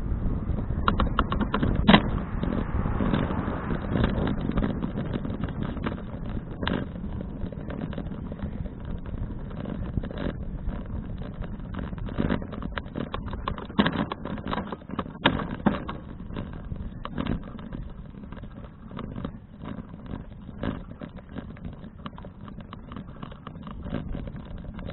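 Wind buffeting the microphone of a bicycle-mounted action camera during a ride, with frequent irregular clicks and knocks from the bike and camera mount rattling over the road. The rumble is strongest in the first few seconds and eases after about six seconds.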